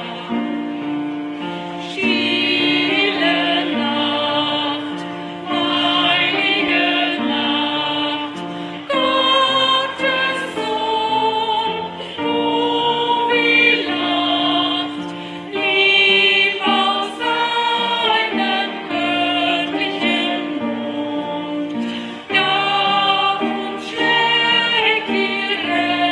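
A hall full of people singing a Christmas song together over instrumental accompaniment, in slow sustained notes.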